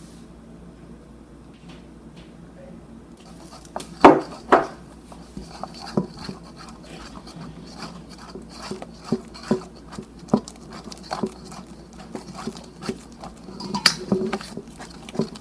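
Slime being mixed in a bowl: irregular clicks and knocks of a utensil against the bowl, starting about four seconds in, the first two the loudest.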